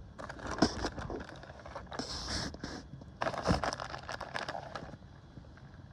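Camp-cooking handling noise: crinkling packaging and a utensil scraping, in three bursts, with a sharp knock about half a second in and a louder one about three and a half seconds in.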